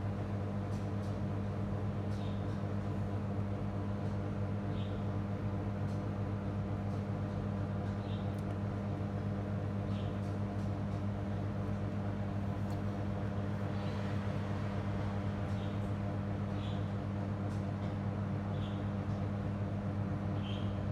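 Steady low electrical hum with a buzzy stack of overtones, and faint short ticks about every second or two.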